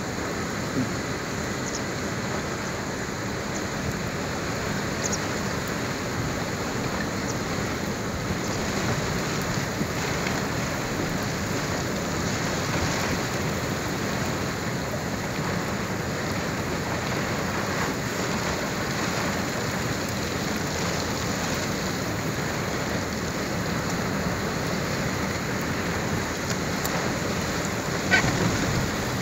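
Steady rain falling during a thunderstorm, an even hiss without breaks.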